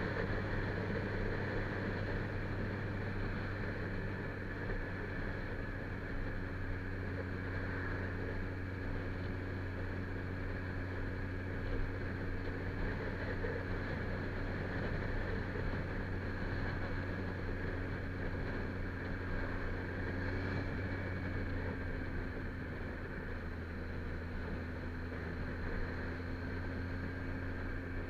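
Kawasaki Z1000 inline-four engine running at a steady cruise with wind and road noise. Its hum drops slightly in pitch about two-thirds of the way through as the bike eases off from around 65 to 60 km/h.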